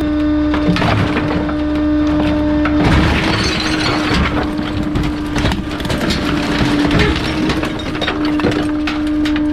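Bulky-item garbage truck's compactor crushing its load: a dense run of cracking and snapping over the steady hum of the truck's hydraulics.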